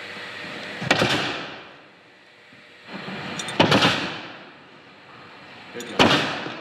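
A wooden door kicked hard three times, each a loud bang that dies away over about half a second, roughly two and a half seconds apart.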